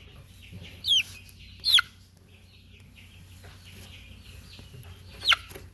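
A young Ayam Cemani chicken giving three short, high-pitched peeps that fall in pitch while it is held and has its beak opened, two close together about a second in and one near the end.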